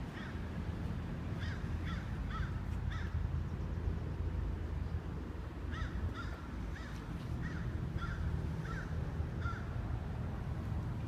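A bird cawing: a run of about four short calls, then after a pause a run of about seven. A steady low rumble runs underneath.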